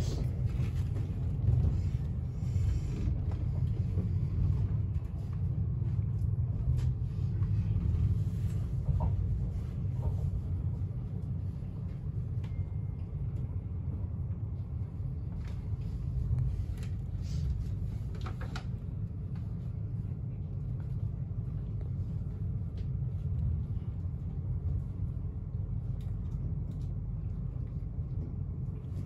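Steady low rumble of a passenger train heard from inside the carriage while it runs along the track, with occasional short clicks and knocks.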